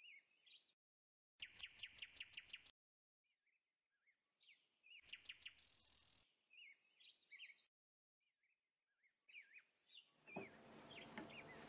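Faint birdsong: short high chirps, with a quick run of repeated notes about a second and a half in and another cluster around five seconds, and scattered single chirps between.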